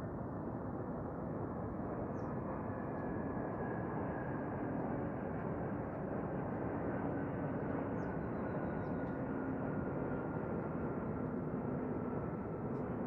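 Steady distant engine rumble with a faint hum, and a few short, faint bird chirps over it.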